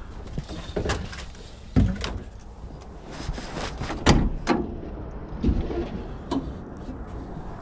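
Irregular knocks and clatters of PVC pipe and fittings being handled and set down, about half a dozen separate strikes with the loudest about four seconds in.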